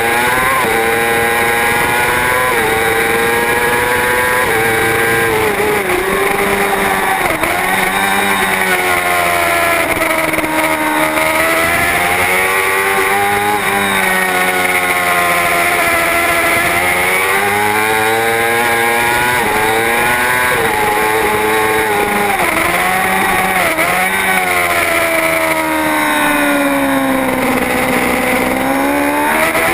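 Racing superbike engine at full throttle, its pitch repeatedly climbing through the revs and dropping back as the rider shifts and brakes.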